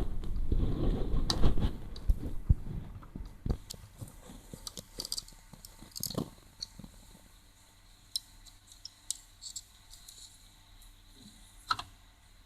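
Hands working on a cassette recorder's tape mechanism: scattered clicks and light taps of small plastic and metal parts, thinning out and growing quieter. A dense low rumbling noise fills the first two seconds.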